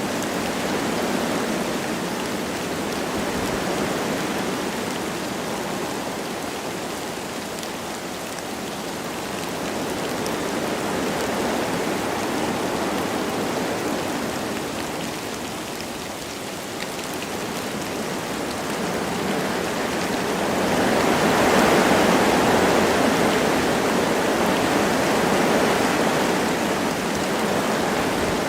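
Wind blowing through forest trees with light rain falling: a steady rushing noise that swells and eases in slow gusts, loudest about three-quarters of the way through.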